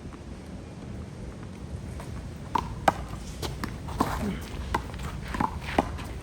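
A handball rally: the rubber ball slapped by hand and smacking off the wall in sharp, irregular hits about every half second, starting about two and a half seconds in, with footsteps on the court.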